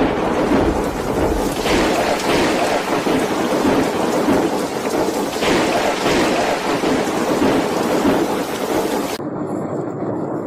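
Storm noise: a loud, dense downpour of heavy rain with a low rumble underneath. It cuts off suddenly about nine seconds in.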